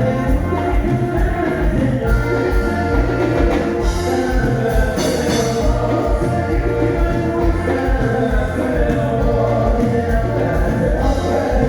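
Band music with singing over a steady drum beat.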